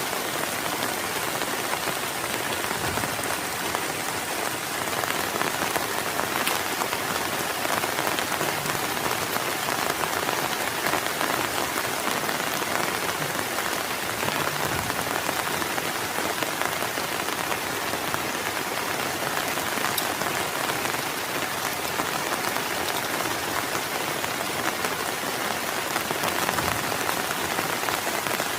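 Heavy rain falling steadily, a dense even patter of drops with an occasional sharper tick.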